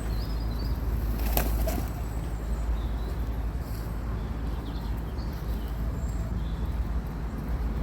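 Steady low outdoor rumble with a few faint high bird chirps, and one sharp click about a second and a half in.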